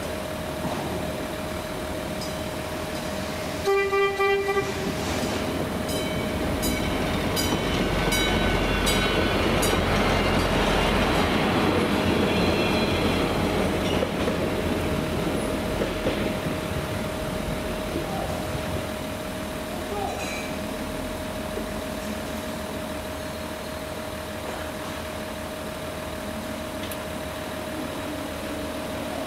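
A CapMetro MetroRail Stadler GTW diesel multiple unit sounds a short horn blast about four seconds in, then rumbles through the grade crossing, loudest around ten seconds in and fading after. The crossing's warning bell rings steadily underneath.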